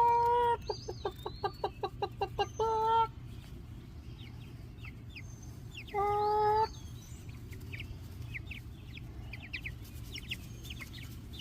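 A grown chicken gives a drawn-out call, then a quick run of clucks at about six a second, and another drawn-out call about six seconds in. Young Black Copper Marans chicks peep throughout with short high chirps.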